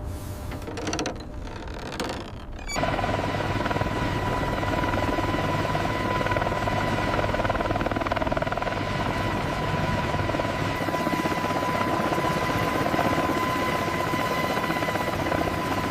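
Helicopter running steadily, a constant whine over the rotor and engine noise. It cuts in sharply about three seconds in, after a quieter, mixed sound.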